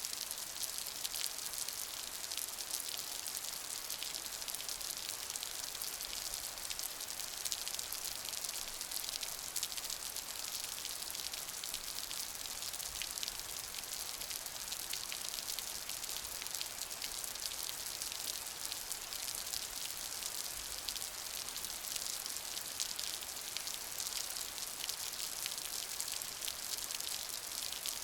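Steady rain falling, a dense even patter of many small drops with no let-up.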